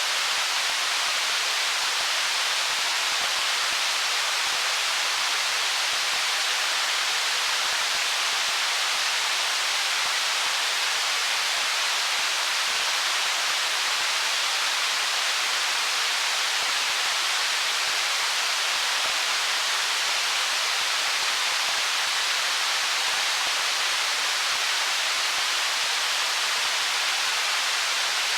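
Stream water flowing among stones: a steady, even rush that does not change.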